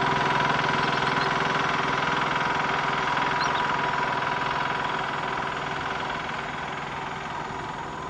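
An engine running steadily with a steady hum, slowly fading away over the few seconds.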